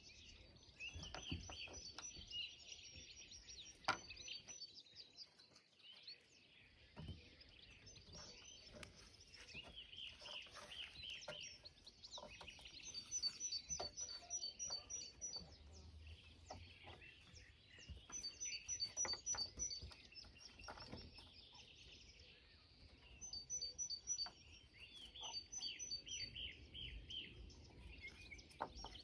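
Small birds chirping, with runs of quick high notes coming every few seconds, over faint rustling and scattered light knocks, the sharpest about four seconds in.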